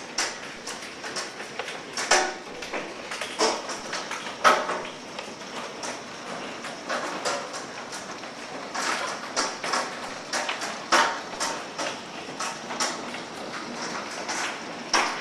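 Hail falling and striking the ground and hard surfaces: a steady hiss of small stones with frequent, irregular sharp knocks from larger hailstones, a few of them loud.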